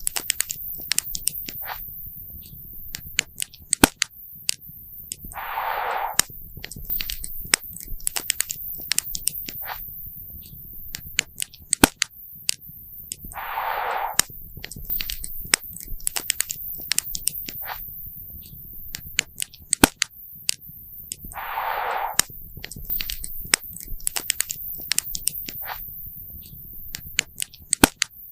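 Wood campfire crackling and popping, with sharp irregular snaps over a low steady rumble. A short hiss comes about every eight seconds.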